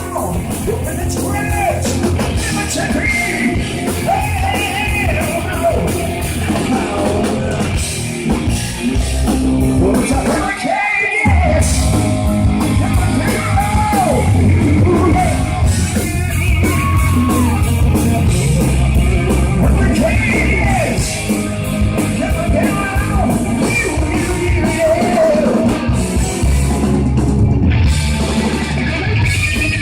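Live hard rock band playing loud, with a singer's voice over electric guitars, bass and drums, recorded from the audience.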